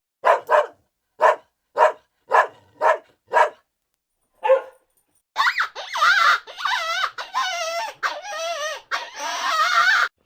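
Dog barking: a quick run of about eight short barks, one more after a pause, then a long string of high, wavering whining cries.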